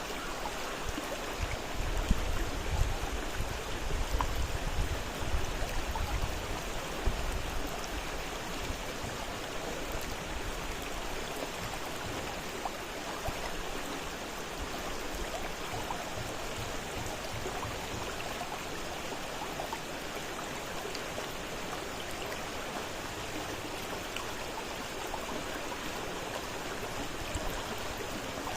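Fast-flowing river rushing steadily, an even water noise, with deeper low rumbling and louder surges between about two and seven seconds in.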